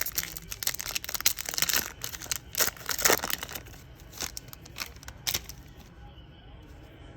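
Wrapper of a pack of baseball cards being torn open and crinkled: a quick run of crackles and rustles that dies away about five and a half seconds in.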